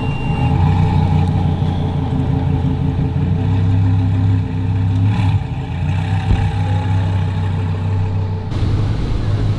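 Car engines running steadily at low revs as cars drive slowly past on a street. The sound changes abruptly near the end.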